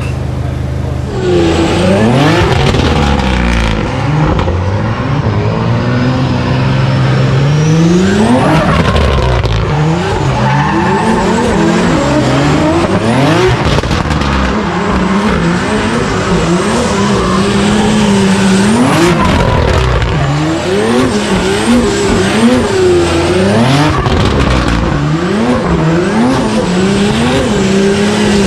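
Toyota GR Supra drift car's 1010 hp turbocharged B58 inline-six, revved up and down again and again, with tyres squealing and skidding as the car drifts. It gets louder about a second in.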